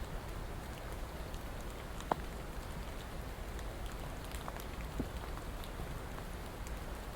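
Steady rain with individual drops ticking on a surface, one sharper drip about two seconds in.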